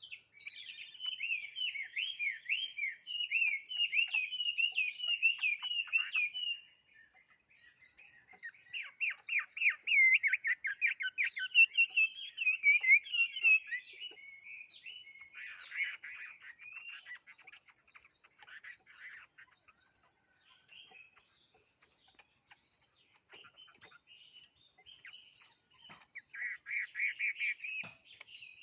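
A songbird singing in long runs of rapid, warbling notes, in several bursts of song several seconds long separated by quieter pauses.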